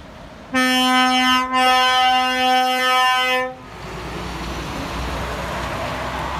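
Truck air horn sounded in one long steady blast of about three seconds, with a brief dip partway through, then the road noise of the vehicle going by.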